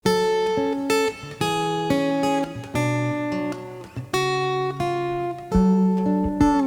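Recorded acoustic guitar music: single notes and chords plucked one after another, a new note roughly every half second to a second, with a few sliding notes near the end.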